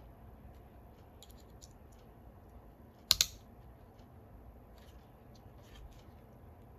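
Scattered light clicks and taps of small hard parts being handled, with one sharp double click about three seconds in that stands out as the loudest sound.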